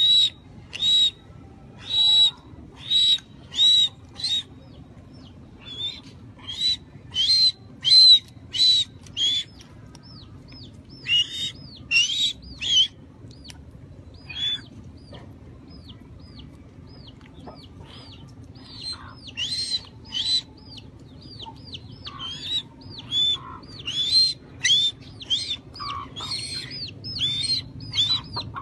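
Birds calling: loud, shrill calls repeated in runs of several, with pauses between the runs, and fainter thin peeps in the gaps.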